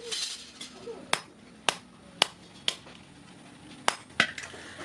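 Light hammer taps on sheet iron: six sharp strikes, about two a second, with a pause before the last two, each with a short ring.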